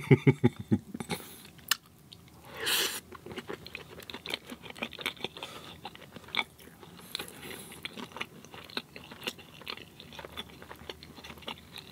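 Close-miked chewing of crunchy food, with many small crackling crunches. The chews are strongest in the first second, and there is a louder noisy moment about three seconds in.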